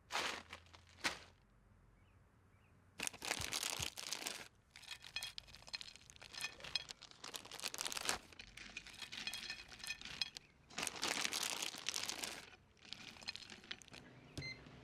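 Crinkling and tearing of food packaging, handled in irregular crackly stretches dense with small clicks, after a brief quiet spell near the start.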